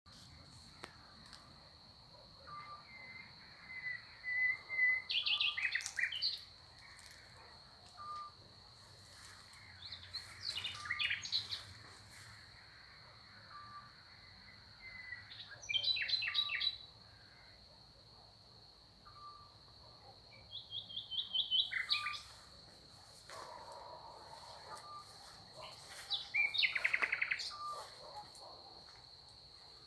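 Songbirds singing at dusk, a short, bright, warbling phrase about every five seconds, with a short low call note repeating about every two seconds over a steady high-pitched whine.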